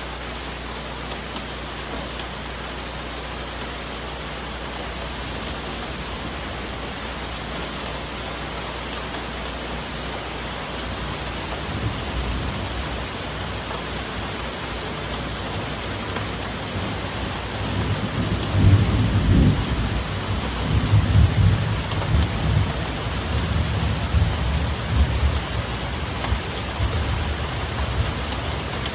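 Steady rain falling on forest foliage, with a low rumble of thunder that builds about a third of the way in, rolls loudest just past the middle, and keeps rumbling on through the rest.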